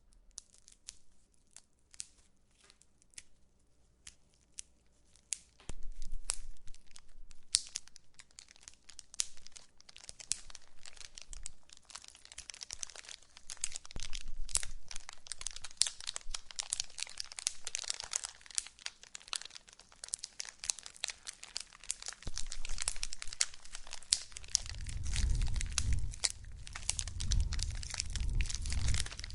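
Wood fire crackling in a fireplace: sparse pops at first, then from about six seconds in a denser run of crackles with a hiss, and a low rumble joining near the end.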